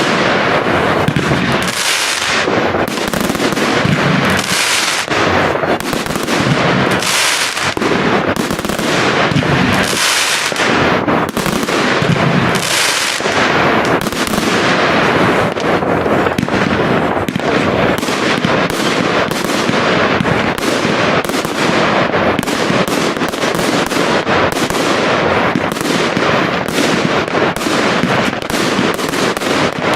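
Large fireworks display: a continuous barrage of shells bursting and crackling, with deeper booms in the first half and the bangs coming faster and denser in the second half.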